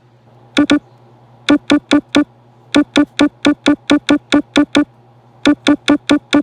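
A short electronic keyboard-like note at one pitch, struck over and over in quick runs of about four or five a second, over a faint steady low hum.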